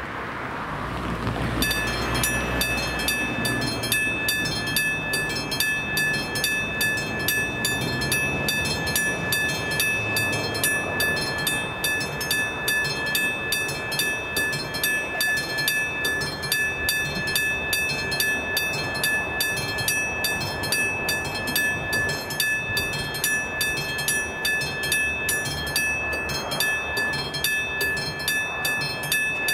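Electronic warning bell of a Czech railway level crossing starting about two seconds in and ringing on in a fast, even, high-pitched ding. A low rumble underlies the first few seconds.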